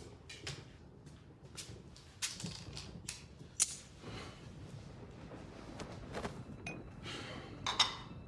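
A series of irregular clicks, knocks and short rustling scrapes, with the sharpest clicks about two, three and a half, and eight seconds in.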